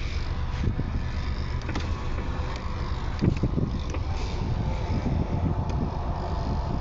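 Steady low rumble of a motor vehicle running, with a few faint clicks over it.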